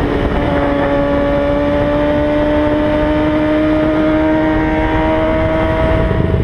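Kawasaki ZX-6R sport bike's inline-four engine running steadily at speed, its pitch climbing slowly as the bike gently accelerates, with wind noise underneath. The engine note drops away near the end.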